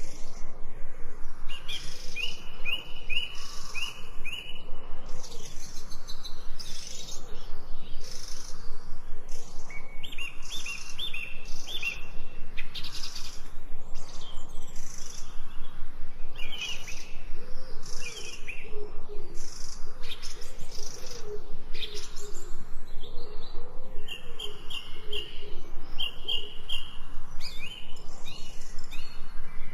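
Wild birds calling: runs of short, evenly repeated high chirps, with lower wavering calls in between, over a steady fast pulsing background.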